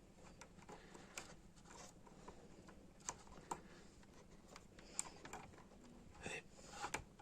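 Faint, scattered small clicks and taps, a second or more apart and a little busier near the end, from hands working on the opened vacuum cleaner's parts.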